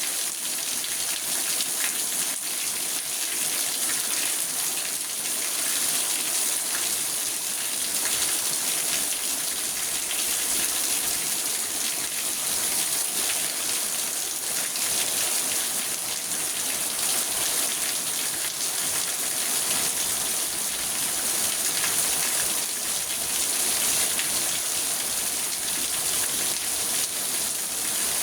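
Steady rain falling on a car's roof and windows, heard from inside the car: an even hiss of many fine drop ticks, holding the same level throughout.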